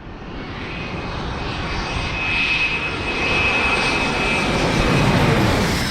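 Jet airliner's engines passing close by, rising in level over the first couple of seconds, with a steady high whine through the middle and the heaviest rumble near the end.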